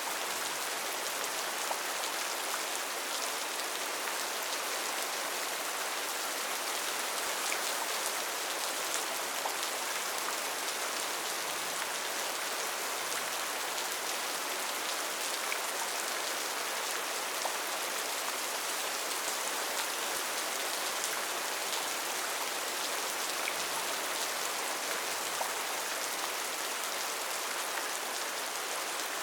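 Steady heavy rain falling on foliage and surfaces in a rainforest: a dense, even hiss with many small drop patters.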